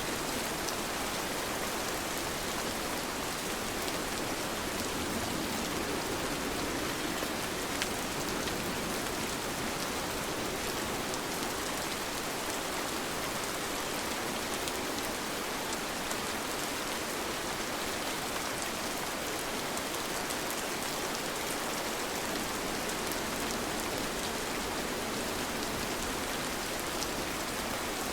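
Steady rain falling, an even hiss with the patter of individual drops landing.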